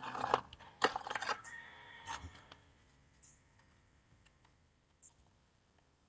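Clattering and rustling for about two and a half seconds as a charcoal fire is lit with oil-soaked tissue, then faint, scattered crackles as the fire catches.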